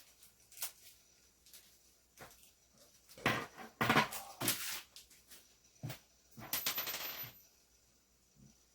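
Small hard parts of a fountain pen being handled: scattered sharp clicks and knocks, with two short bursts of quick rattling clicks a few seconds apart.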